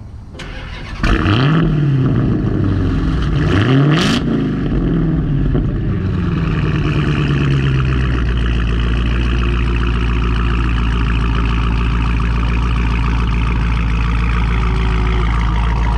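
Hemi V8 cold start: the starter cranks briefly and the engine catches about a second in, revs up and back down twice, then settles into a fast cold idle that drops to a steady lower idle about eight seconds in.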